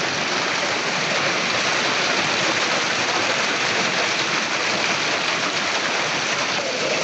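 Storm water: a loud, dense, steady rushing hiss of heavy downpour or torrent, with no single impacts standing out. A faint steady tone joins near the end.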